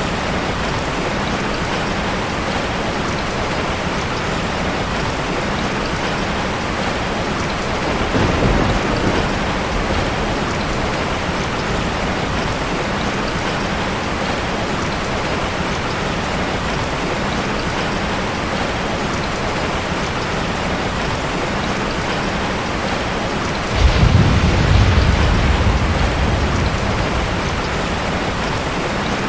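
Steady heavy rain, with a low rumble of thunder about eight seconds in and a louder one near the end that starts suddenly and rolls on for a few seconds.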